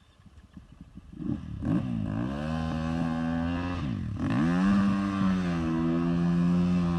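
KTM 450 EXC's single-cylinder four-stroke engine comes in about a second in and revs, its pitch swinging up and down. It dips sharply around four seconds, then holds at a steady higher speed.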